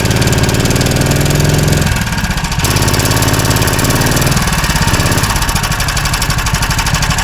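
Motorized snow tow's engine running under throttle while the machine is bogged down in deep loose snow and will not move forward. The engine note shifts about two seconds in and again a couple of seconds later.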